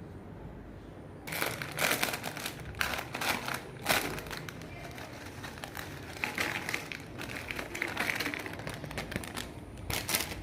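Lay's potato chips and their packet crackling and crunching in an irregular run of sharp crackles that starts about a second in.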